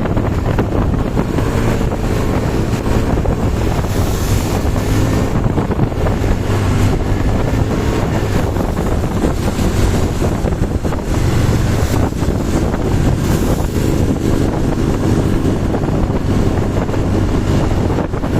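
Loud wind buffeting the microphone in heavy rain, with a steady low hum underneath.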